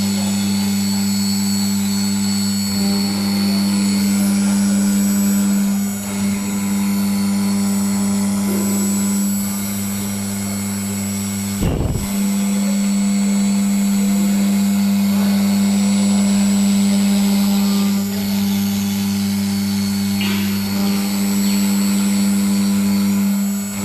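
CNC wood router's air-cooled HQD spindle running with a steady, loud hum and whine. It dips briefly a few times, with a short break and a thump about halfway through.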